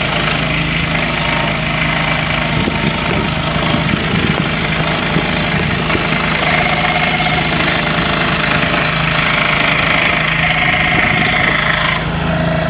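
Scroll saw running with its blade cutting through a wooden board, a steady motor hum under the cutting noise; the level drops near the end.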